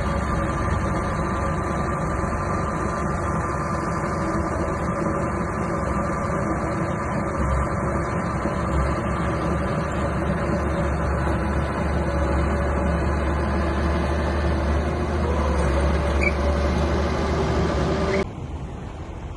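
Small bulldozer's diesel engine running steadily with a deep, even hum. About 18 seconds in the sound drops off abruptly to a much quieter background.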